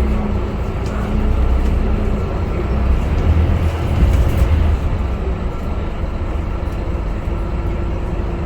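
Scania K250UB bus's diesel engine running under way, a deep rumble with road noise; the engine swells around three seconds in and eases off a little just before five seconds.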